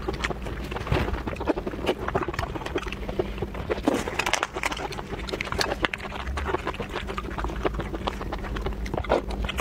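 Close-miked wet chewing and lip-smacking while eating raw lobster meat: many irregular soft smacks and clicks of the mouth.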